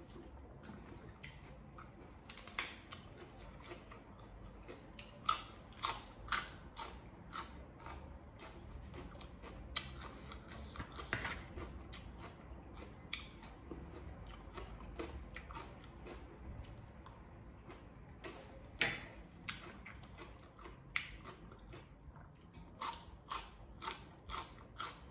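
Close-up chewing and crunching of mouthfuls of spicy salad and raw greens, with many sharp, irregular crunches and soft wet mouth sounds; a quick run of crunches comes near the end.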